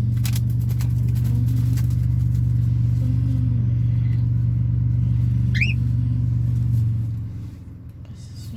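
A steady low motor hum that fades away about seven seconds in, with one short, high, rising chirp a little before it fades.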